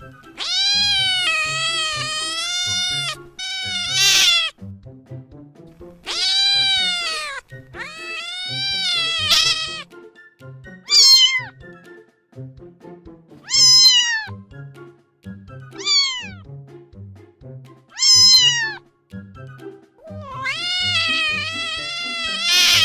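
Domestic cats meowing repeatedly over background music: several long, wavering meows, and in the middle four short meows that drop sharply in pitch, spaced a few seconds apart.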